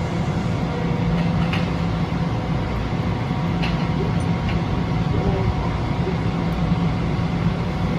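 Long Island Rail Road commuter train at the station platform, a steady rumble with a constant low hum and a few faint ticks.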